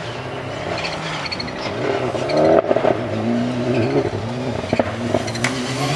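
Rally car engine revving up and down as it is driven hard, with a sharp crack about two and a half seconds in.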